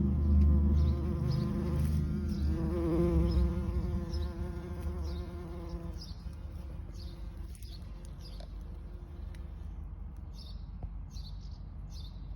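A bee buzzing with a wavering drone that stops about six seconds in, while short high chirps repeat throughout. A low rumble fades out at the start.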